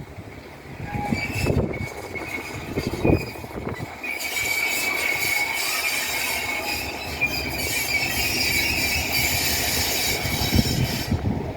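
Passing train's wheels squealing on the rails: a steady high squeal starts about four seconds in and stops shortly before the end, after a few low knocks.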